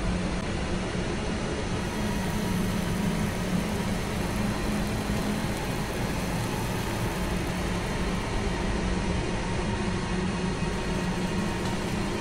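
A steady, dense rumbling drone with a low hum underneath, unbroken throughout.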